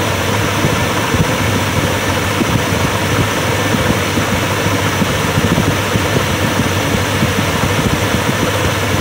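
Carbureted engine idling steadily, running on a Gunson Colortune plug in one cylinder. The Colortune shows a blue flame, the sign of a correct fuel/air mixture.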